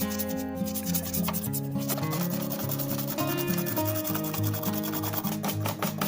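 Hand sanding: abrasive paper rubbing back and forth over a part in repeated strokes, with background music.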